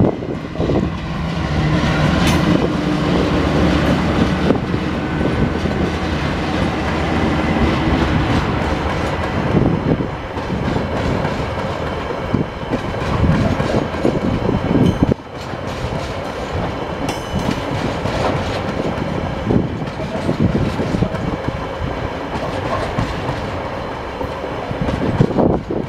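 Two TasRail TR class diesel locomotives, TR09 and TR08, pass with a steady engine drone for the first third or so. Then the empty container wagons roll by with a rumble and irregular wheel clatter.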